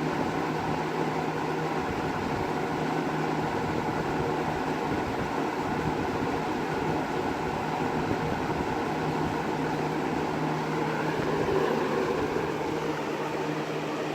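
20-inch Lakewood-made Kmart box fan, model K223, running steadily: an even rush of air with a low motor hum underneath.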